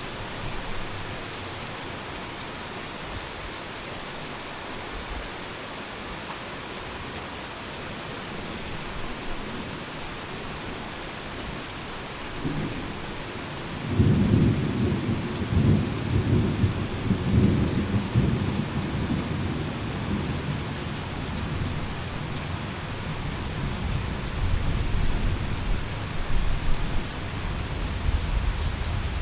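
Heavy rain falling steadily. About halfway through, a long roll of thunder rumbles in, loudest for several seconds before easing off, and a second, lower rumble builds near the end.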